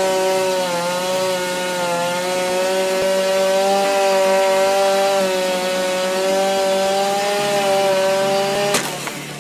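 Chainsaw running at high revs while cutting wood, its pitch wavering slightly under load; it cuts off suddenly near the end.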